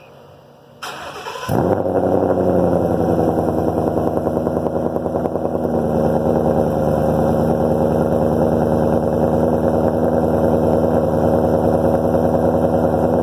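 2016 Mustang GT's 5.0 L V8 through Kooks catless longtube headers and an MBRP Race catback with H-pipe, starting up about a second in and then idling steadily with a deep, even exhaust note.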